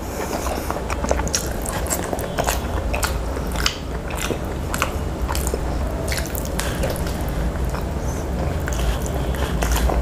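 Close-miked wet chewing and biting of spicy chicken drumsticks in curry, eaten by hand, with many quick sharp clicks and smacks of lips and teeth over a steady low hum.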